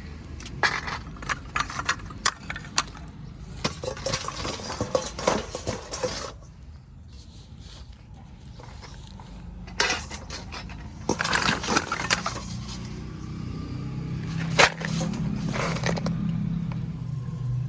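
Baked clay kulhad cups being broken and crunched into pieces: clusters of sharp cracks and crunches in two bursts, with one loud snap near the end.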